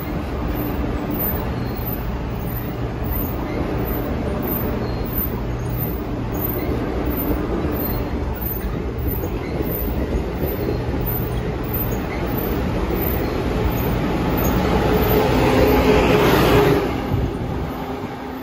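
Amtrak Acela Express electric trainset rolling past the platform: a steady rumble of wheels and running gear with a low hum. It grows louder about fifteen seconds in as the rear power car comes by, then falls off shortly before the end.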